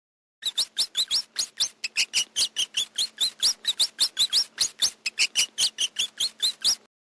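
A bird chirping in a fast, even series of short high calls, about five a second, each with a quick upward sweep; it starts about half a second in and stops abruptly near the end.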